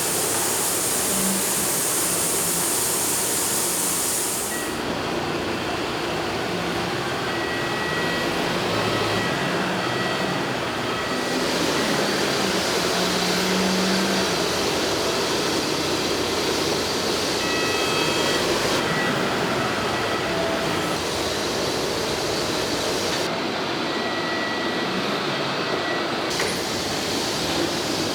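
Steady, loud industrial machinery noise in a bearing-ring forging plant, with faint steady whines mixed in. The character of the noise changes abruptly several times.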